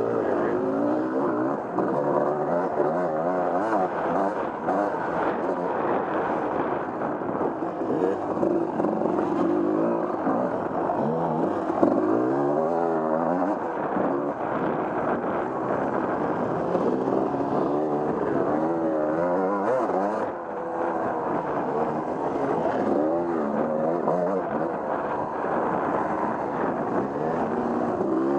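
Off-road vehicle engine being ridden on a trail, revving up and down continuously, its pitch rising and falling every second or two with throttle changes.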